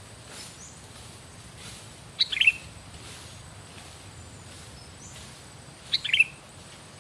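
Sooty-headed bulbul (kutilang) singing: two short phrases of quick falling notes, about four seconds apart.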